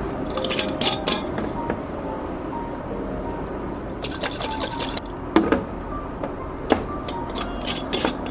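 Soft background music with scattered clinks and knocks of kitchen utensils and dishes, including a quick run of taps about four seconds in.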